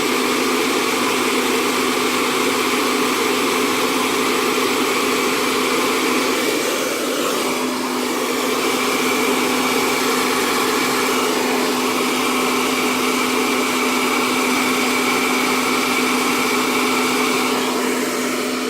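Handheld hair dryer with a nozzle running steadily on its low, cool setting: a constant rush of air over a steady motor hum.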